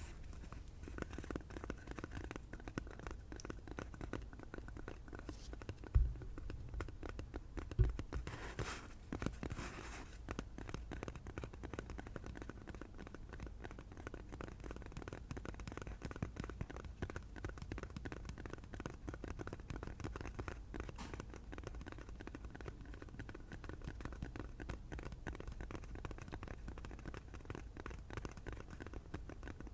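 Fast, continuous finger tapping and scratching on an object, a dense run of small clicks, with two louder knocks about six and eight seconds in.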